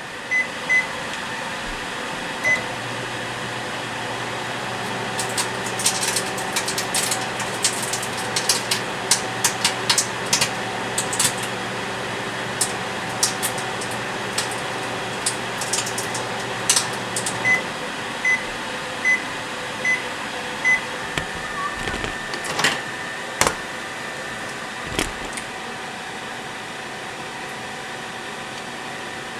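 Microwave oven keypad beeps a few times, then the oven runs with a steady hum while a DVD inside arcs, crackling with many sharp snaps. The hum cuts off about two-thirds of the way through and the oven gives five end-of-cycle beeps, followed by a few knocks.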